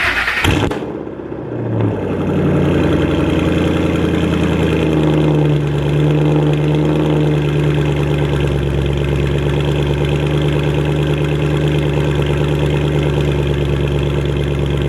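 Car engine cold-starting through a loud X-pipe exhaust: a sharp burst as it fires, then a steady fast idle that eases slightly lower after a few seconds.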